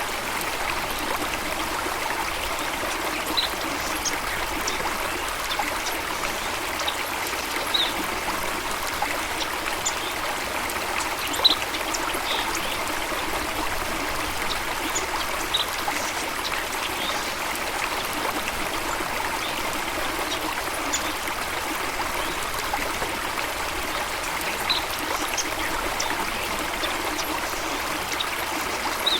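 Running water, a steady rushing and trickling, with scattered short, high bird chirps every few seconds.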